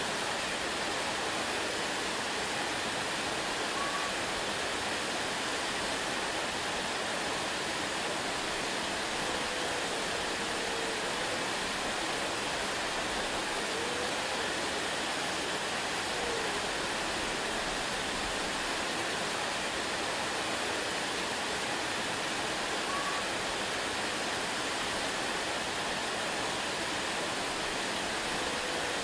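A waterfall, its water rushing steadily and evenly without letting up.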